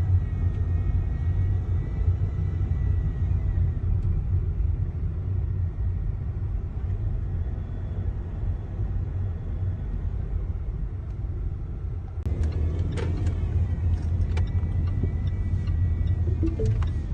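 Steady low rumble of a car driving, engine and road noise heard from inside the cabin, with a few short light clicks in the last few seconds.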